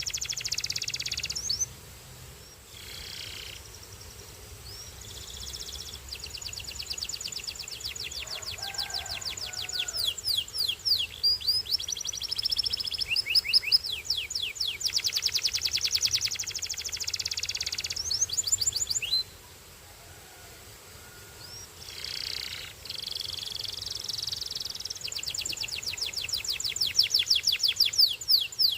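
Belgian canary singing: long, fast trills of rapidly repeated high notes, broken twice by pauses of a second or more before starting up again.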